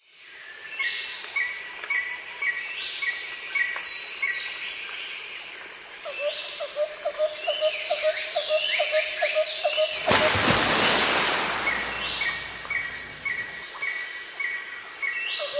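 Woodland birds singing and calling, several at once, with runs of short repeated chirps and quick downward whistles. About ten seconds in, a rushing hiss rises over them for a couple of seconds.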